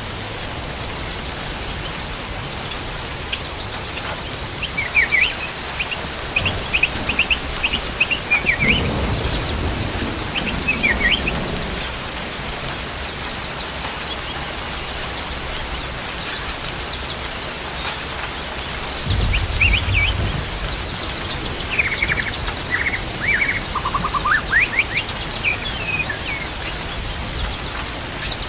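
A songbird chirping in quick strings of short notes and trills, in two spells with a pause between them. Low dull thumps come twice under the birdsong, over a steady hiss.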